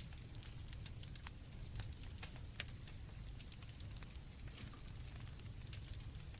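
Campfire crackling, with irregular small pops and one sharper pop about two and a half seconds in, over a low steady rumble of the burning fire. Crickets keep up a steady high trill behind it.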